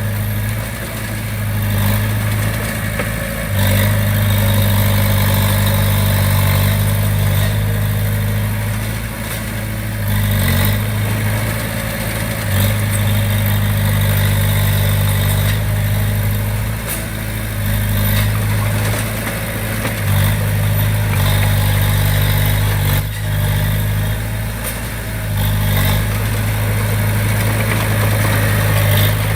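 Komatsu D20P bulldozer's diesel engine running steadily under work, its note dipping and rising every few seconds as the load changes, with a few short knocks.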